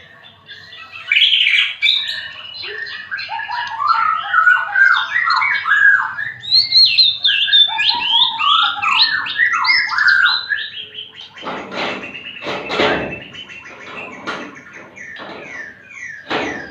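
A murai (white-rumped shama) singing loud, fast, varied whistled phrases. About eleven seconds in, the song gives way to a run of knocks and rattles, with a few calls still between them.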